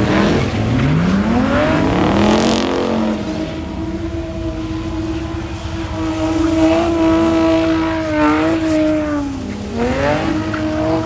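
A car engine revving hard. Its pitch dips and climbs near the start, holds high and steady for several seconds, then drops and climbs again near the end.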